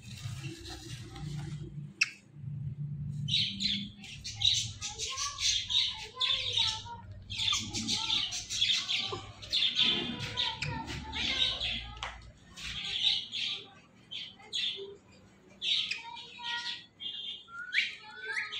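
Ringneck parrots chattering and squawking in quick runs of short, high-pitched calls, which start about three seconds in and go on with brief pauses.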